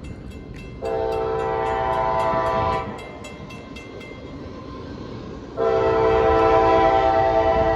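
A CSX diesel locomotive's multi-chime air horn sounds two long blasts for the grade crossing, the first about a second in and the second starting near the end. A crossing bell rings faintly behind the first blast.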